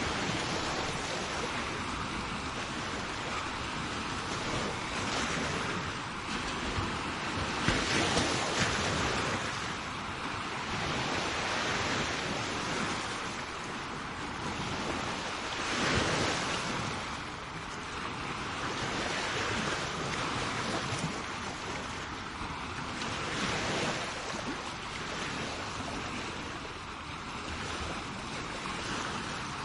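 Sea waves breaking and washing up the shore, the surf swelling and easing every few seconds, with a louder surge about a quarter of the way in and another near the middle.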